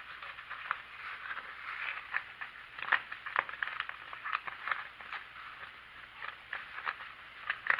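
Small steel T-nuts clicking and rattling against each other and their container as they are shaken in a degreasing soak. The clicks are irregular and come throughout.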